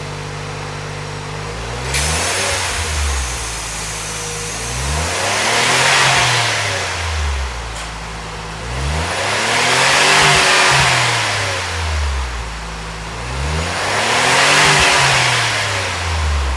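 Suzuki JB64 Jimny's 660 cc turbo three-cylinder engine, breathing through a Kudoh Jidosha high-position muffler, idling and then revved three times, its pitch rising and falling each time.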